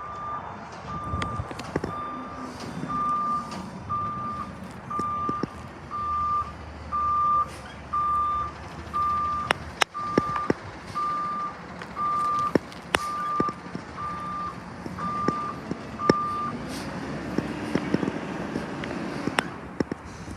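Garbage truck's reversing alarm beeping about once a second in one steady tone, stopping about three-quarters of the way through, over the truck's engine running. A few sharp knocks, the loudest about ten seconds in.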